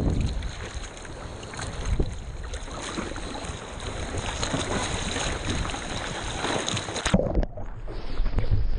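Water splashing and sloshing close to a GoPro's microphone, with wind on the microphone, as a surfer paddles a surfboard out through small surf. About seven seconds in the sound briefly dulls, then breaking surf washes.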